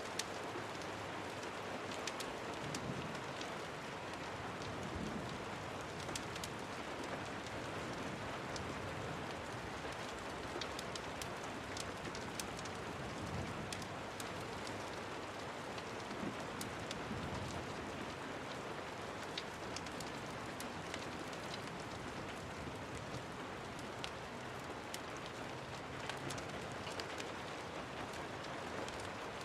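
Steady rain falling, an even hiss with scattered sharp little clicks throughout.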